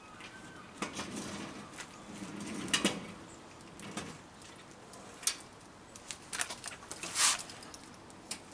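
Irregular clicks and knocks with a few short scraping sounds, the loudest scrape about seven seconds in.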